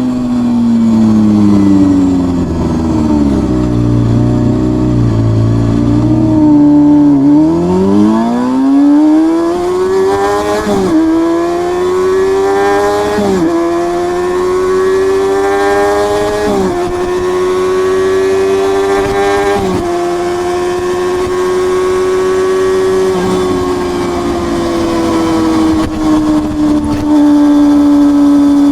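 Exhaust of a Honda CBR250RR MC22's 249 cc inline-four: the engine speed falls as the bike slows, then it accelerates through four quick upshifts, its pitch climbing and dropping at each shift, and settles into a steady cruise.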